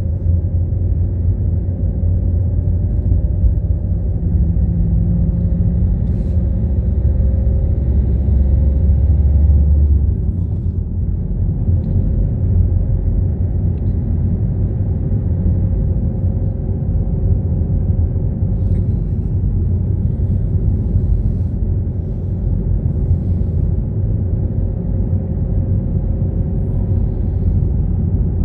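Car driving: a steady low rumble of engine and road noise, which builds up to about ten seconds in, then eases a little and runs on evenly.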